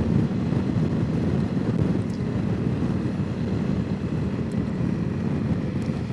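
Wind buffeting the microphone over a Honda CRF300 Rally's single-cylinder engine running steadily while riding.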